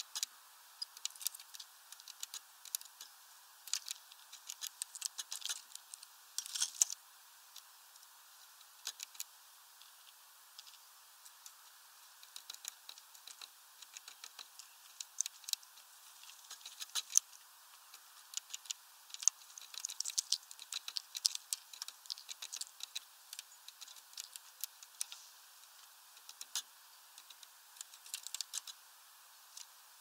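Irregular clusters of light clicks and taps: a spotted flycatcher's feet and bill striking a plastic water dish and its twig perch.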